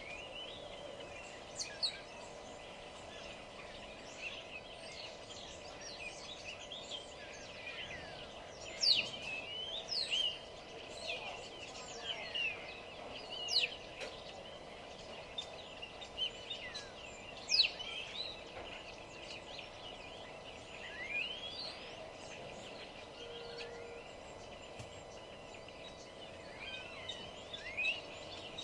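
Several songbirds singing and calling: many quick chirps and whistles sweeping sharply up and down in pitch, busiest through the middle, over a faint steady low hum.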